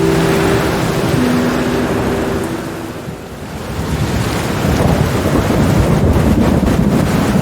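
Steady rain with thunder rumbling low, swelling again from about halfway through after a brief lull. A few soft held musical notes sound under the rain in the first few seconds, then fade out.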